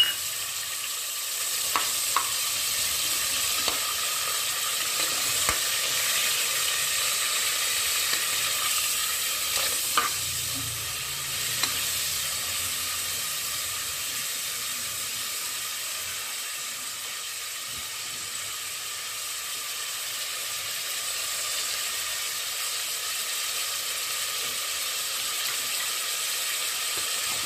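Mutton bones, curry leaves and whole spices sizzling in hot groundnut oil in an aluminium pressure cooker: a steady frying hiss, with a few light clinks from a slotted steel spoon stirring them against the pot.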